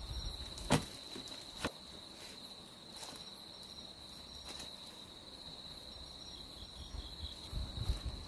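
Insects, crickets by the sound of it, trilling steadily at a high pitch. Two sharp knocks come within the first two seconds, and a few fainter clicks follow.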